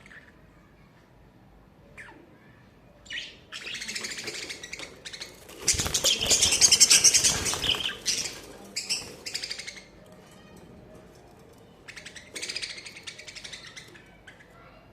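Budgerigars chattering and chirping in several bursts, loudest about six to eight seconds in.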